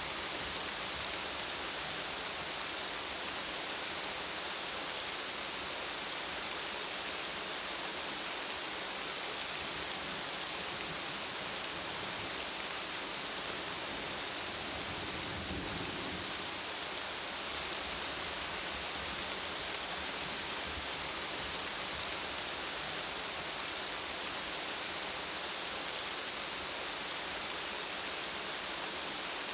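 Steady rain falling, an even hiss, with a low rumble swelling briefly about halfway through.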